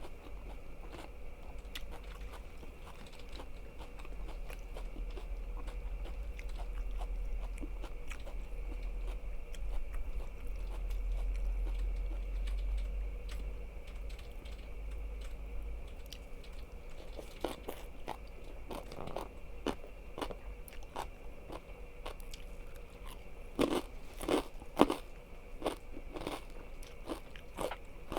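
Close-miked eating: chewing with many small crunching clicks, then a run of louder crunching bites about two thirds of the way through. A low rumble sits under the chewing in the first half.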